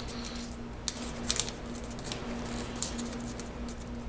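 Origami paper being folded and creased by hand: scattered short paper crinkles and rustles, a few sharper ones about a second in and again near three seconds.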